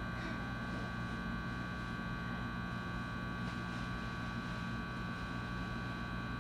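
Cabin of a JR West 223-series electric train standing still: the steady hum of its on-board equipment and air conditioning, with a constant high whine from the auxiliary power inverter.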